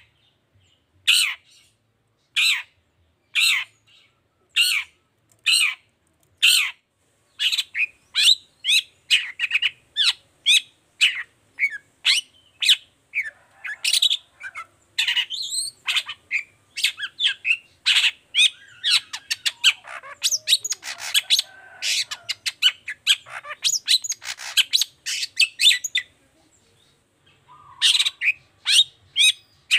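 Long-tailed shrike (cendet) in full song: at first a short, sharp call repeated about once a second, then after about seven seconds a fast, varied chatter of mixed calls. It stops briefly about four seconds before the end, then starts calling again.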